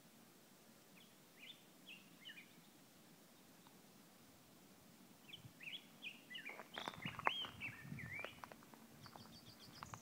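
Faint songbirds singing in phrases of quick rising and falling chirps: a short burst about a second in, then a longer run from about five seconds in. From midway on, soft rustling and a few sharp knocks come in, the loudest of them a sharp knock a little past seven seconds.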